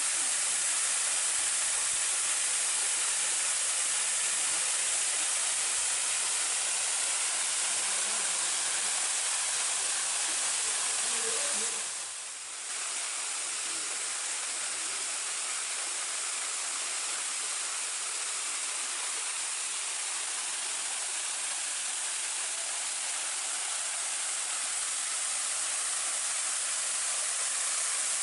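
Waterfall rushing, a steady hiss of falling water that dips briefly about twelve seconds in.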